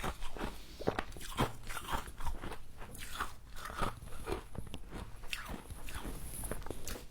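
Close-miked crunching and chewing of frozen frost in the mouth, irregular crisp crunches several times a second.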